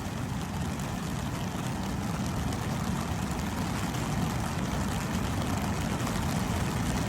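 Storm-swollen torrent of runoff water rushing steadily, a deep, even noise that slowly grows a little louder.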